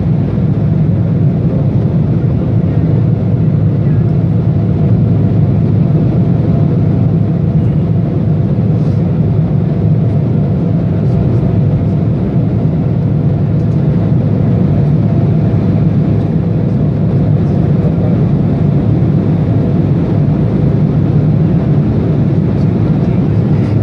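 Steady, loud roar of a jet airliner's engines and rushing air, unchanging throughout, with a faint steady hum running through it.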